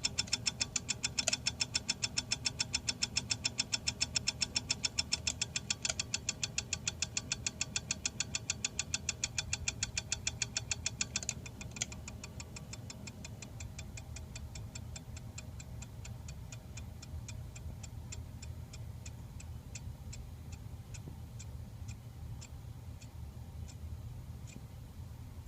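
Hunter 52-inch Low Profile ceiling fan motor running with a rhythmic click about seven times a second over a low hum, the bearing noise the owner blames on shipping damage. About eleven seconds in the clicks get quieter and then slow steadily, to about two a second near the end.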